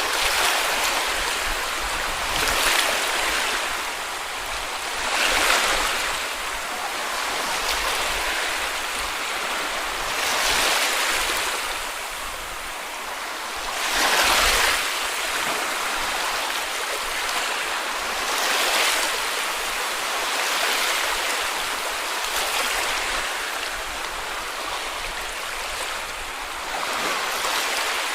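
Small sea waves breaking and washing onto a beach, one surge of hiss every few seconds. The loudest comes about fourteen seconds in.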